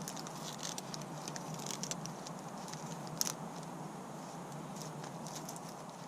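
Mora Companion knife shaving thin curls down a stick of split wood to make feather sticks: a run of light, quick scraping strokes, with one sharper click a little after three seconds in.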